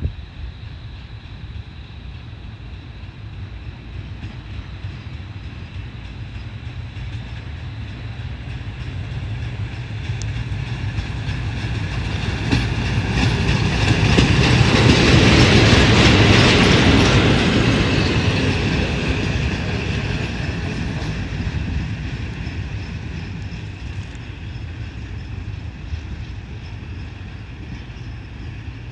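WM-15Ak motor draisine (small rail maintenance trolley) running past on the track, growing louder to a peak about halfway through and then fading away.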